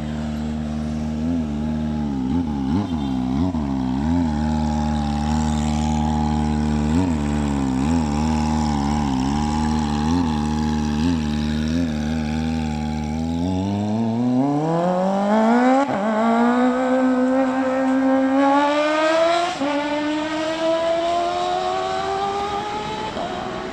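Kawasaki ZX-25R inline-four engine through a custom exhaust, running steadily with small regular rises and falls in pitch, then revving up, its pitch climbing steeply over the last ten seconds with a couple of breaks.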